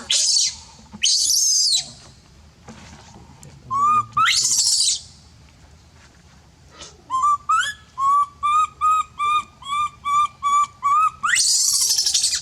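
Baby monkey vocalising: several harsh, high-pitched shrieks about a second long each, and partway through a run of about a dozen short pitched squeaks, roughly three a second.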